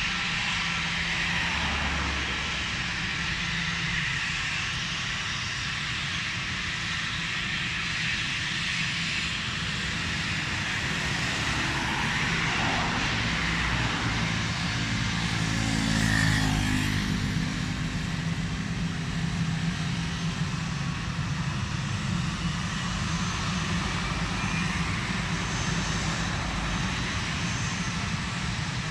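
An aircraft's engines passing close by. The sound builds to its loudest a little past halfway, with a sweeping, whooshing change in tone as it goes past, then falls back to a steady engine noise.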